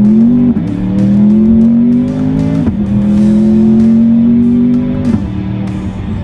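Twin-turbo Chevrolet Corvette C8 V8 under full acceleration from a roll. Its pitch climbs steadily and drops sharply at each quick dual-clutch upshift: three shifts about two seconds apart. After the third shift it runs lower and steadier.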